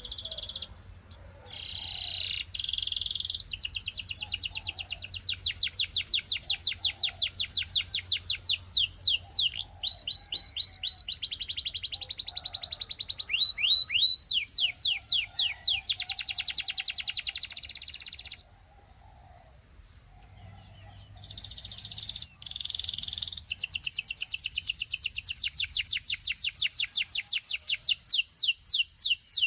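Domestic canary of the Russian singing type singing a long rolling song: fast trills of rapidly repeated high notes and runs of quick down-slurred notes, phrase after phrase. The song breaks off for about two seconds past the middle, then starts again.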